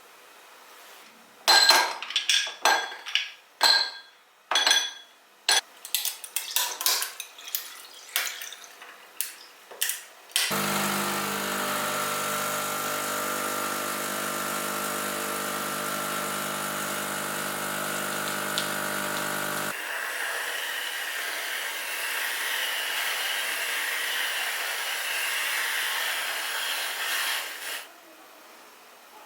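Kitchen sounds while making coffee: glassware and dishes clinking and knocking, then an electric appliance's motor running steadily for about nine seconds, then a rushing, hissing noise for about eight seconds that cuts off near the end.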